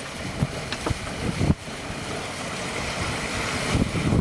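Sailboat under way in strong wind: steady rushing of water and wind, with a few sharp knocks in the first second and a half and a louder low rumble near the end.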